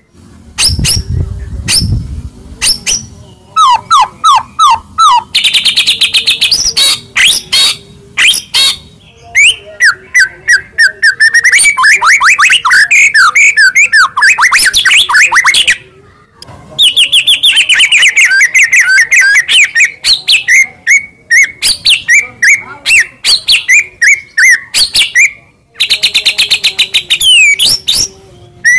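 White-rumped shama (murai batu) singing hard: a loud, varied song of rapid chattering runs of sharp repeated notes mixed with whistled phrases, going on almost without a break, with two short pauses.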